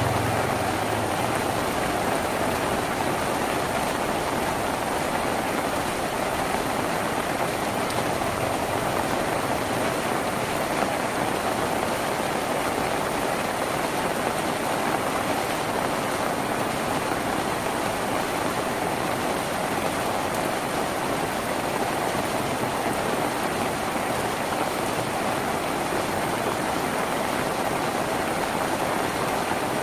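Rain falling steadily on the tin roof of a house, an even, unbroken patter. A low hum fades out in the first second.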